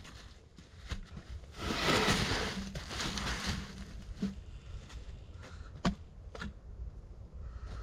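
Someone moving about and handling wood in forest litter: rustling that lasts about two seconds, then a few sharp knocks or snaps.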